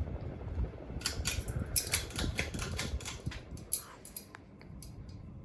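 Broan Hugger ceiling fan running, its airflow rumbling steadily on the microphone. A run of sharp clicks and rattles sounds from about one to four seconds in, then dies away.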